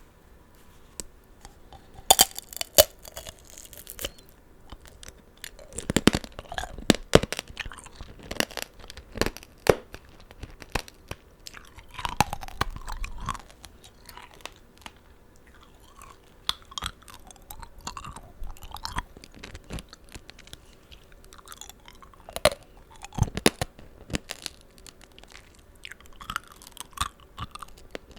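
Eating tanghulu, strawberries and green grapes coated in hardened sugar syrup: the glassy candy shell cracks in clusters of sharp crunches, with wet chewing and juicy mouth sounds in between.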